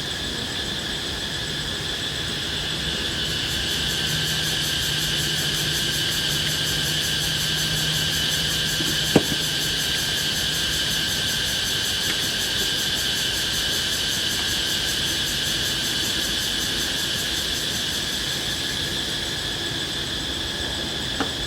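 Chorus of forest insects, a steady high-pitched shrill trilling, with one sharp click about nine seconds in.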